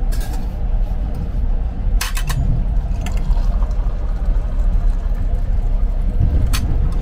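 Passenger train running along the track, heard from on board: a steady low rumble with a few sharp clicks, a cluster of them about two seconds in and single ones around three and six and a half seconds.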